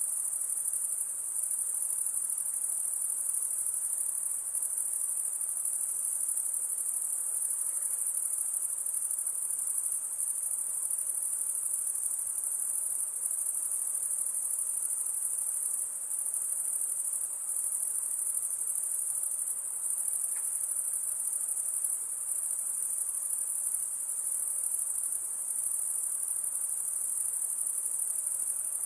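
Crickets chirping at night: a dense, continuous high-pitched trilling chorus, steady in level.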